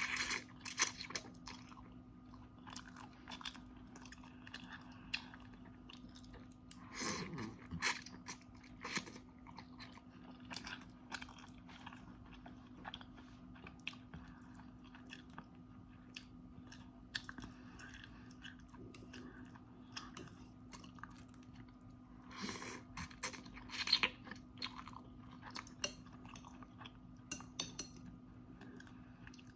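Close-miked chewing of instant noodles, with many small wet mouth clicks and louder spells of biting about seven seconds and twenty-three seconds in.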